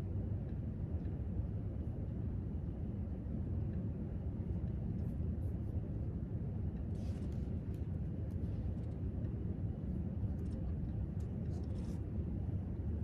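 Steady low rumble of library room tone, as from ventilation, with faint scattered clicks now and then in the second half.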